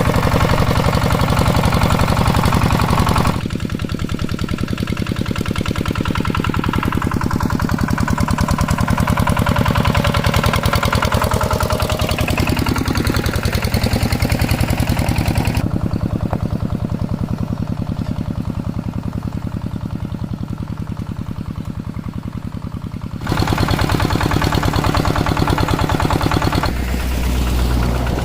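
Two-wheel hand tractor's single-cylinder diesel engine running with a fast, even chugging beat. Its sound shifts abruptly several times, dropping quieter twice and coming back louder, with a deeper low note near the end.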